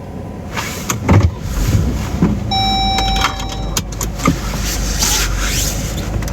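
Sounds of a car being handled as it stops in a car wash bay: clicks and knocks over a low steady rumble, with a single electronic beep held for about a second near the middle.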